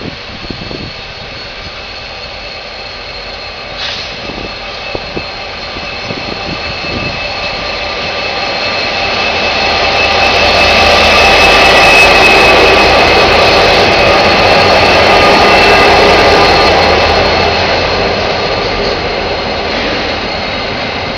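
Diesel-hauled coal train passing through a station. The locomotives and wagons grow louder, run loudest for several seconds about halfway through with some steady ringing tones, then slowly fade as the train rolls by.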